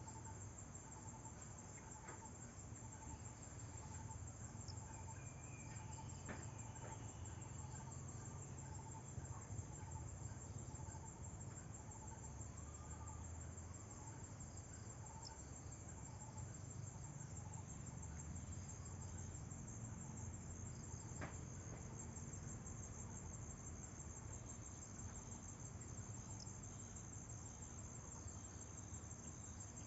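Insects chirring in a faint, steady high-pitched trill, with a softer repeated lower note for the first several seconds and a low background rumble.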